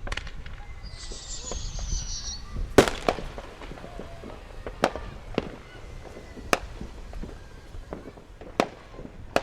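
Neighbourhood firecrackers going off at scattered distances: a short hiss about a second in, then a loud sharp bang about three seconds in, followed by about half a dozen further single pops at irregular intervals.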